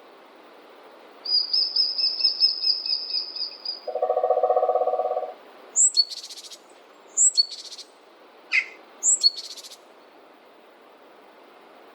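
Forest birds calling over a steady hiss of background noise. A high, rapid trill lasts about two seconds, followed by a lower pulsed trill of about a second and a half. Then come three short calls, each a quick high note followed by a buzzy rattle, roughly a second and a half apart.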